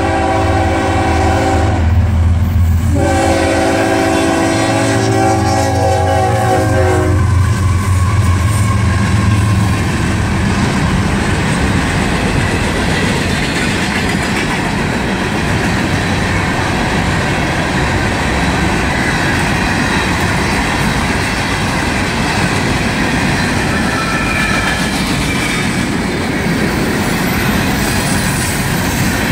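Freight train's diesel locomotive sounding its air horn, a chord of several tones: one blast ending about two seconds in and another from about three to seven seconds, over the locomotive's engine. Then the freight cars roll past with a steady clatter of wheels on rail.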